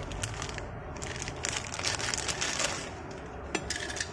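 Handling a small die-cast toy car and its packaging: scattered small clicks and knocks, with a longer rustle in the middle.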